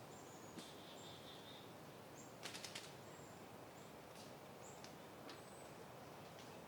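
Faint outdoor ambience of soft wind, with brief high bird chirps scattered throughout. A single click comes about half a second in, and a quick run of four clicks about two and a half seconds in.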